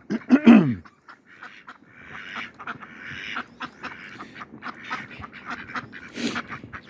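Ducks quacking: one loud call that falls in pitch right at the start, then softer, scattered quacks and chatter for the rest.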